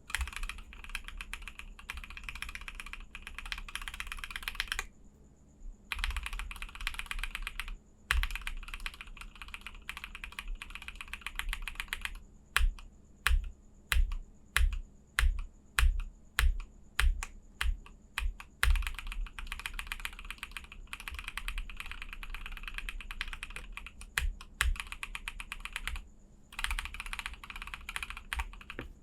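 Typing on a KBD67 Lite mechanical keyboard with linear switches: quick runs of keystrokes, broken by a short pause twice. In the middle comes a stretch of separate, louder single key presses, about two a second.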